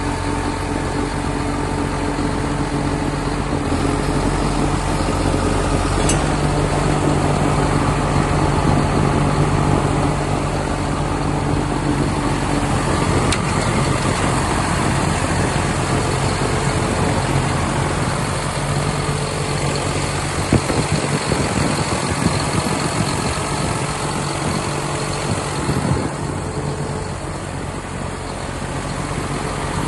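John Deere 7930 tractor's six-cylinder diesel engine running steadily at low speed, with a few short knocks about two-thirds of the way through.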